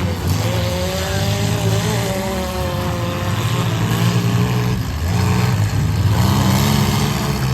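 Mid-size race trucks' engines running and revving, the pitch rising and falling as they race around a figure-8 track.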